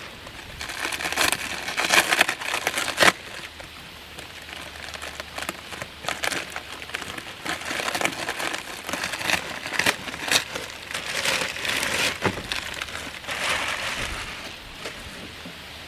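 Plastic wrapping around a new mattress topper crinkling and rustling in irregular bursts as it is handled and worked at with a small cutter, with a few sharp clicks.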